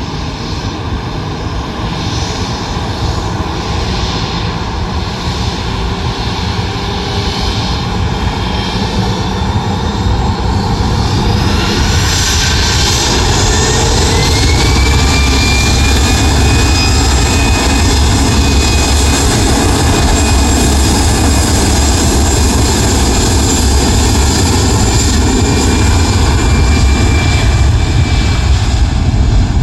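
Jet airliner engines spooling up with a loud, building rumble. About twelve seconds in, a whine rises in pitch and then holds steady as the engines reach takeoff power.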